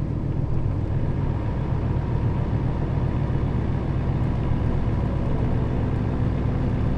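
Diesel engine of a Nissan Diesel KL-RA552RBN route bus running steadily while the bus is under way, heard from inside the passenger cabin.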